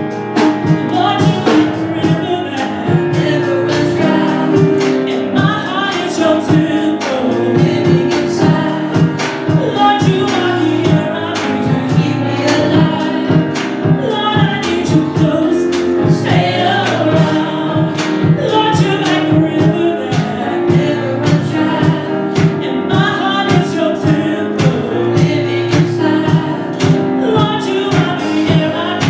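Gospel singers performing a praise song with band accompaniment over a steady drum beat.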